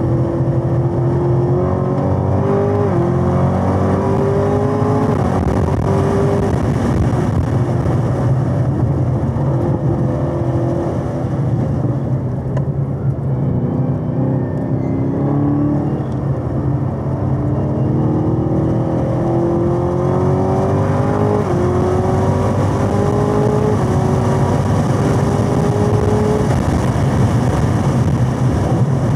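Camaro ZL1 1LE's supercharged 6.2-litre V8 under hard track driving, heard from inside the cabin. The revs ease off through a slower corner, then climb again with quick upshifts as the car accelerates down a straight, over a steady rush of tyre and wind noise.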